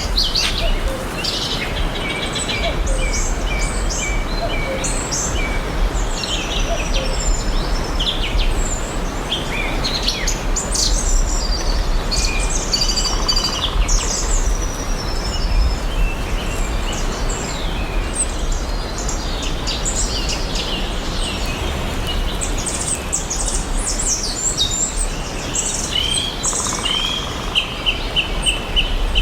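Several songbirds chirping and singing in a forest chorus, short whistled phrases overlapping one another over a steady low background rumble. Near the end one bird gives a quick run of repeated notes.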